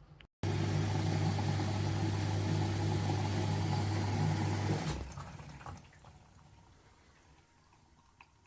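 Washing machine running water through, a steady low hum under a rushing water noise, which stops abruptly about five seconds in and dies away.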